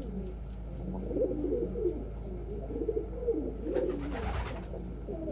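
Several domestic pigeons cooing continuously and overlapping, low warbling coos, with a short rustle about four seconds in.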